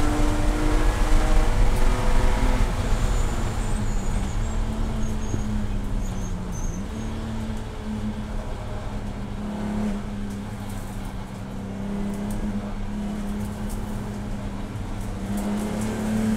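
Race car engine running steadily at speed, its note dipping briefly about six to seven seconds in and climbing again near the end.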